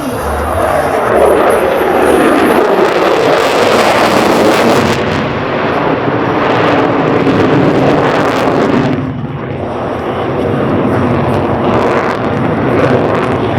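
Loud jet roar of an F-22 Raptor's twin turbofan engines. It swells about a second in, eases briefly about nine seconds in, then builds again.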